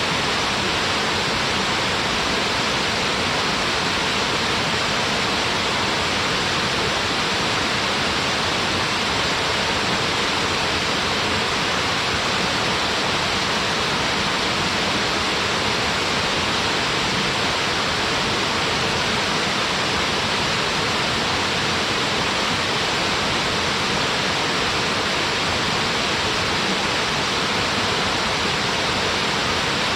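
Small waterfall on a mountain stream, water pouring and splashing in a steady, unbroken rush.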